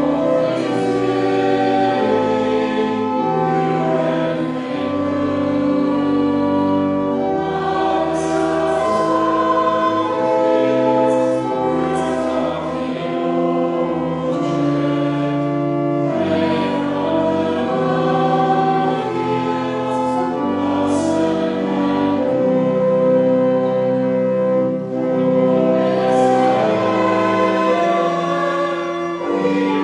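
A choir singing a hymn in held, slow-moving chords, with sung consonants.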